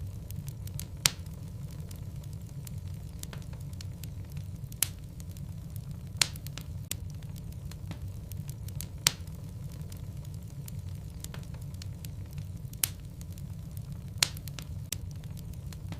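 Logs burning in a fireplace: a steady low rumble of the flames with sharp wood crackles and pops at irregular intervals, the loudest about six of them.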